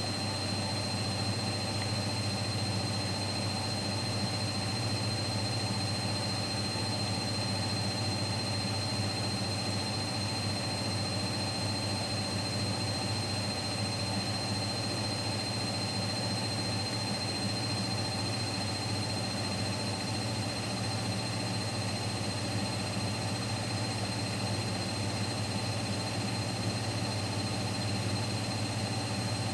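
Siemens Siwamat Plus 574 front-loading washing machine in its final spin at 800 rpm: a steady low hum of the drum and motor with a thin, steady high whine over it.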